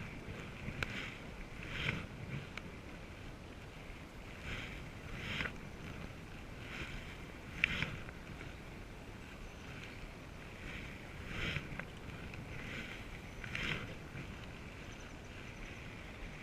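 Canoe paddles dipping and pulling through the water, short splashes coming irregularly about once a second.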